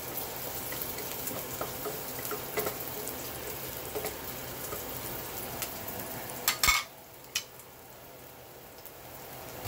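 Chopped onion, garlic, ginger and Thai chili sizzling in oil in a stainless steel pot while being stirred, with small scraping clicks. About six and a half seconds in there is a short loud metal clatter, then a single click, and the stirring stops, leaving a quieter sizzle.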